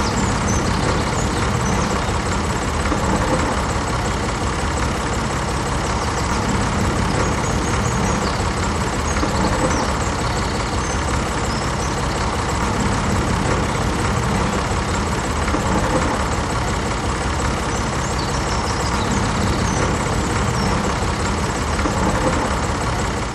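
Tractor engine running steadily, cutting off abruptly at the end.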